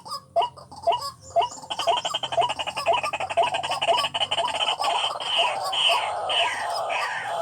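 White-breasted waterhen calling: a series of short rising calls about three a second, breaking into a fast chattering run about two seconds in, then slower, higher falling calls in the second half.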